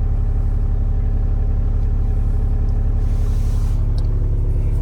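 Volkswagen 1.9 TDI (ALH) four-cylinder turbo-diesel idling steadily in the cold, with a low, even pulsing beat.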